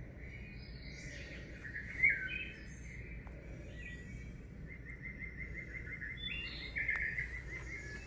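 Birds chirping faintly: a louder sliding call about two seconds in, then a quick run of short repeated chirps through the second half.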